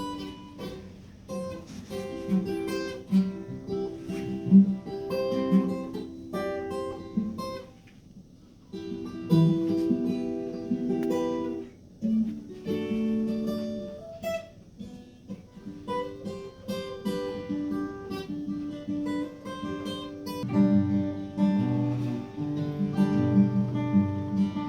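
Acoustic guitar music, plucked and strummed, with a brief pause about eight seconds in and fuller strumming near the end.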